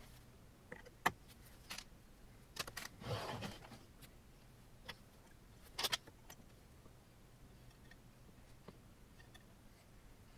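Metal parts and tools clicking and clinking while a 3D printer kit is put together by hand. There are a few scattered clicks, a brief rattle about three seconds in, and the sharpest knock just before six seconds.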